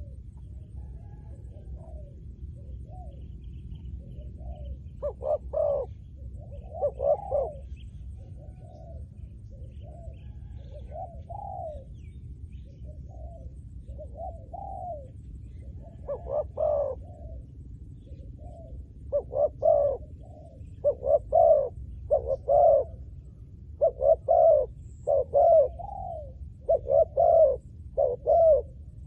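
Spotted dove cooing: repeated short coos in phrases, sparse at first, then a steady run of louder coos through the second half. A steady low rumble runs underneath.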